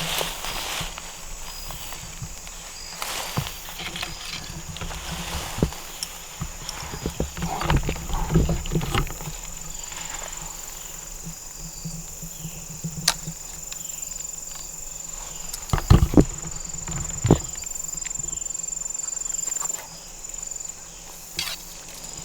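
Insects trilling steadily at a high pitch, with rustling and a few sharp knocks of handling in the tree stand, the loudest about two-thirds of the way through.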